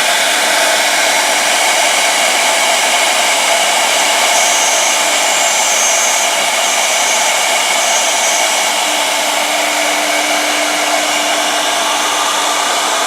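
Two-head 1325 CNC router running, a loud steady rushing noise with faint tones that come and go.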